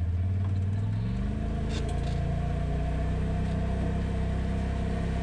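Polaris RZR side-by-side's engine running under way, its pitch rising about a second in as it revs up, then holding steady.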